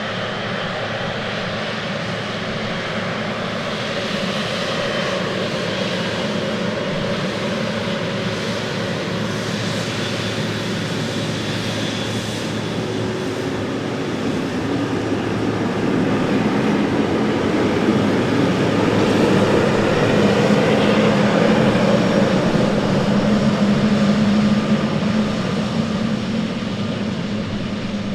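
Jet engines of a Boeing 777F freighter, its GE90 turbofans, running steadily with a faint whine, growing louder through the second half to a peak and then easing off near the end.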